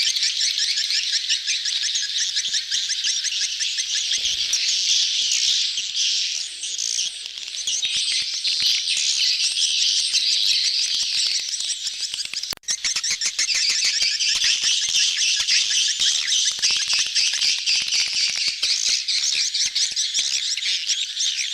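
A dense crowd of edible-nest swiftlets chirping and twittering continuously, many rapid calls overlapping: the sound of a colony in mating/courting mood, as used for swiftlet lure recordings. There is a momentary drop-out about halfway through.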